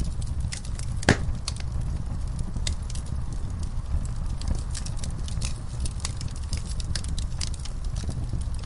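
Wood fire burning in a fireplace: a steady low rumble of flames with irregular crackles and snaps, and one loud pop about a second in.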